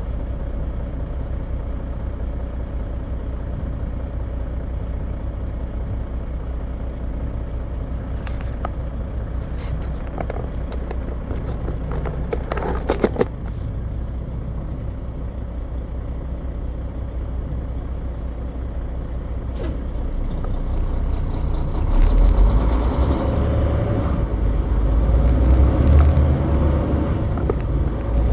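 Semi truck running on the road, a steady low rumble with a brief loud burst of noise about halfway through; the rumble grows louder and heavier over the last several seconds.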